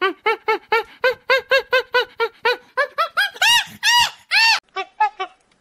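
A small animal crying in a rapid string of short, high-pitched squealing calls, about four or five a second. The calls grow louder and longer for a few cries a little past halfway, then go on softer.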